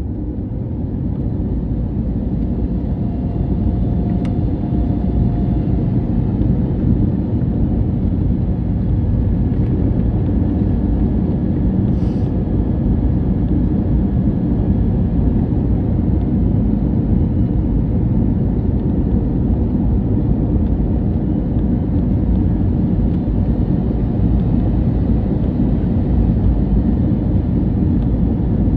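Cabin noise of an Airbus A321neo airliner: a steady low roar of engines and airflow heard inside the cabin. It builds slightly over the first few seconds, then holds.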